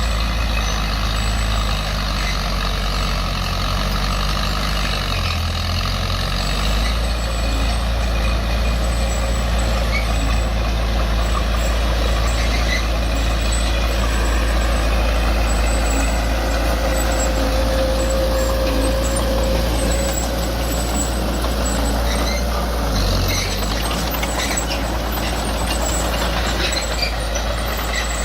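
Heavy diesel earthmoving machinery running steadily under work, with the engine note shifting about five seconds in and again near the end.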